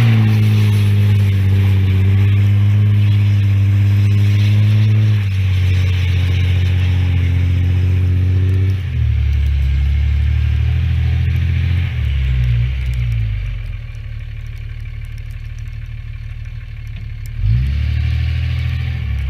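Small dirt bike engine running, its pitch stepping down in stages. It drops to a quieter low run about two-thirds of the way in, then rises again briefly in a short rev near the end.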